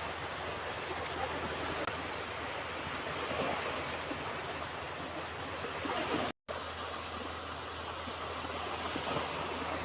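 Ocean surf washing on a beach, a steady rushing sound of breaking waves, cut by a brief dropout to silence a little over six seconds in.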